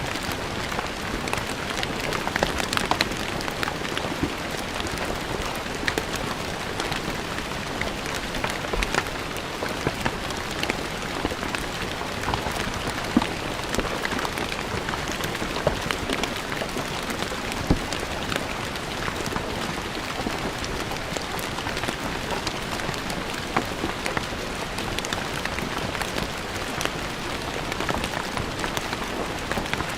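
Steady rain falling on stone paving, a dense even patter with many individual drops ticking sharply.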